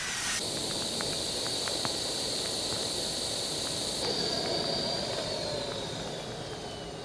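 A steady hiss with a high whine that holds, then slowly falls in pitch over the last few seconds, joined by a lower tone that falls with it; scattered light clicks.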